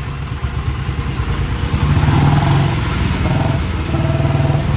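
Vehicle engine running with a fast, even exhaust beat. It gets louder about two seconds in and eases back a little before the end.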